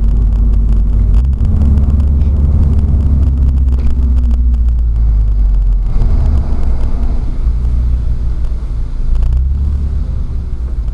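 Race-prepared VW Scirocco engine with an aftermarket exhaust, heard loud from inside the cabin as the car is driven hard through the gears; the engine note changes several times at the gear changes. Its exhaust burbles and pops on upshifts, which the passenger puts down to an ignition cut.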